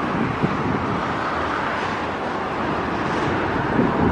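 Double-stack container cars of a Canadian Pacific freight train rolling past on the rails: a steady rumble of wheels on track.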